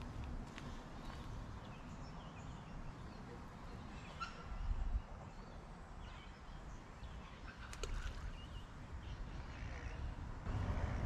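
Scattered bird calls over a low, steady rumble, with one louder call about four to five seconds in.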